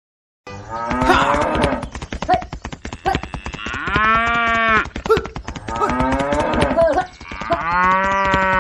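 Cattle mooing: several loud calls, including two long moos that rise and fall in pitch, a little past a third of the way in and near the end, with sharp clicks between them.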